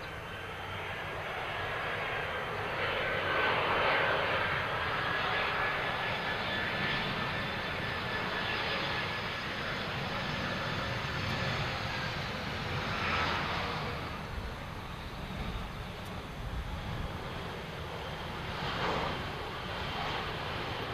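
Airliner engines running as the aircraft moves past: a steady whine over a broad rumble, swelling about four seconds in and again briefly around thirteen and nineteen seconds.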